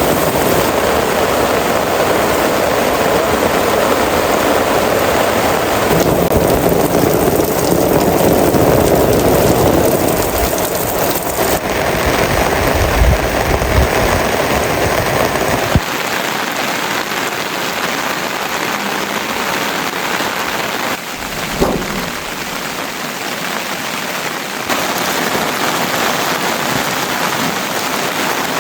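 Heavy rain falling steadily, its sound changing abruptly several times. A deep low layer under the rain drops away about halfway through, and there is one short sharp knock a little later.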